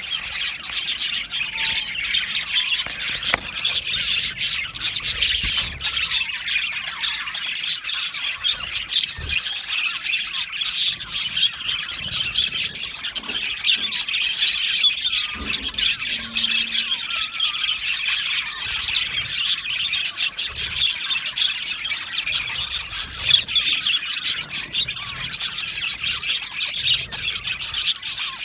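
A flock of budgerigars chattering, a dense, unbroken mix of warbling, chirps and sharp squawks from many birds at once.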